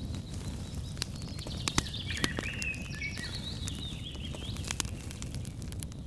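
A bird sings a warbling, chirping phrase in the middle, over a steady low outdoor rumble. Scattered sharp clicks and crackles run throughout, the loudest a little under two seconds in.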